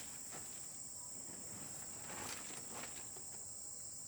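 Steady high-pitched drone of insects, with a few soft rustles about a third of a second in and again past the two-second mark.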